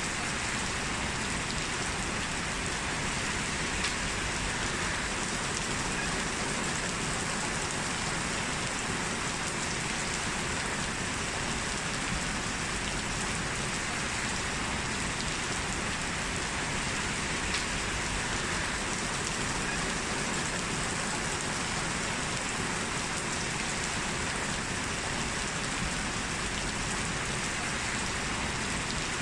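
Heavy rain falling steadily and pattering on surfaces, an even hiss with a few louder drops now and then.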